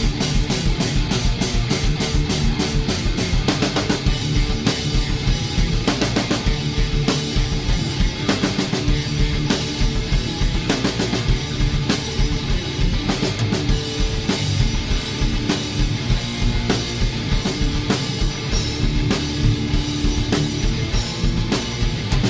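Rock band playing live, an instrumental passage on drum kit and electric guitar, opening with a run of evenly spaced drum hits over the first few seconds.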